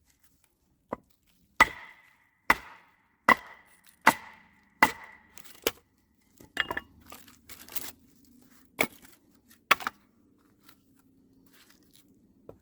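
A series of hard, sharp strikes, about one every second, each leaving a short ringing tone. The blows turn irregular midway, then two more strikes land near the end.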